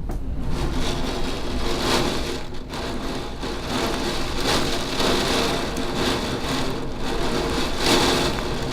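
Heavy thunderstorm rain pouring down in a dense, steady hiss that swells and eases every second or two as the gusts come and go.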